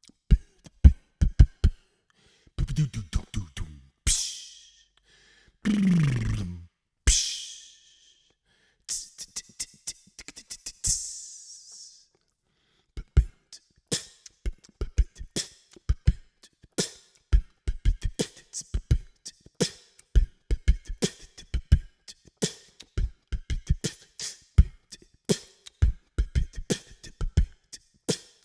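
Beatboxed vocal percussion with sharp kicks and clicks, hissing sounds and a low swooping drop near six seconds. After about thirteen seconds it settles into a steady beat.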